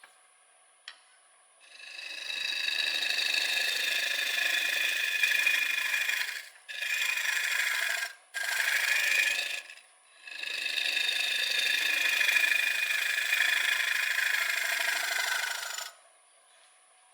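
A turning tool cutting into a spinning, freshly cut wet maple bowl blank on a lathe. It makes a steady rough rubbing sound in four long passes, the tool lifting off briefly three times, and stops suddenly near the end.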